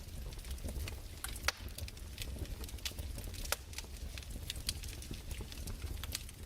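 Fireplace crackling: irregular sharp pops and snaps over a low steady rumble, the loudest pops about one and a half and three and a half seconds in.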